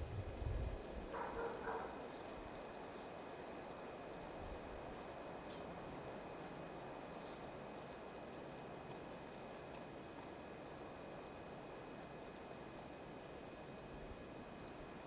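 Small birds giving short, faint, high chips over a steady outdoor hiss. A louder, lower bird call stands out about a second in.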